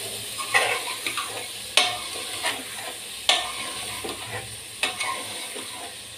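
Metal ladle stirring mutton liver pieces frying in oil in an aluminium pressure cooker: a steady sizzle, with the ladle scraping the pot and knocking against it about every second and a half.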